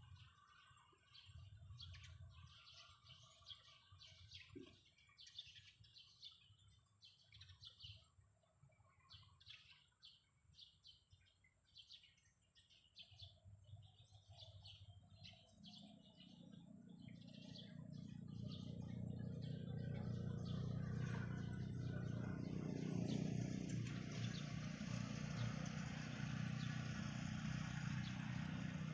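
Small birds chirping in quick, repeated bursts. About halfway through, a low motor noise rises and then runs steadily, louder than the birds and covering them.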